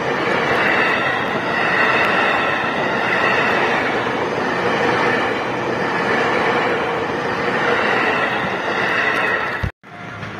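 A JR East electric train passing at close range: the steady rush and rumble of wheels on rail and running gear. The sound cuts off suddenly near the end and gives way to quieter, more distant train noise.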